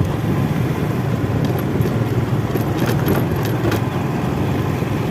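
Motorcycle riding slowly over a rough, off-road stretch: a steady low engine and road rumble with a few sharp rattles and clicks a couple of seconds in.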